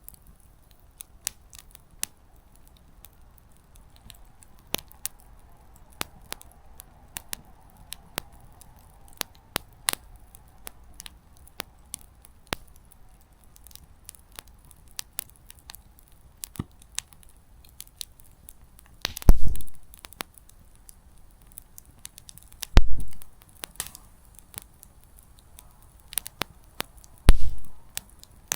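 Small wood campfire crackling, with scattered sharp snaps of burning firewood. Three much louder pops, each with a low thump, come about two-thirds of the way through and twice more near the end.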